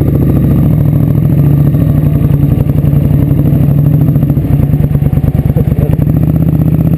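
Motorcycle engine running loud and close with a steady firing beat. About four and a half seconds in, the beat turns rough and uneven for a second or so, then settles again.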